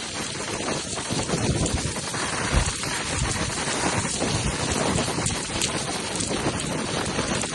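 Scania truck running and building up air pressure: a steady rushing hiss over a low, uneven rumble.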